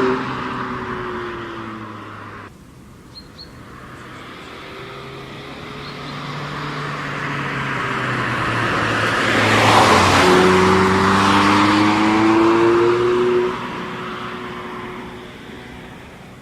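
A sports car's engine revving as the car comes by. It grows louder to a peak about ten seconds in, then climbs in pitch as it accelerates away and fades.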